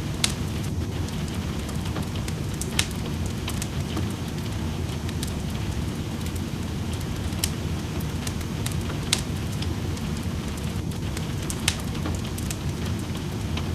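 Wood fire crackling in a fireplace, with sharp irregular pops over a steady low hiss of rain.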